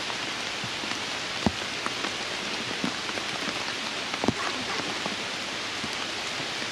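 Steady rain falling on stone blocks and leaves, a constant even hiss. Two sharp taps stand out, one about a second and a half in and one about four seconds in.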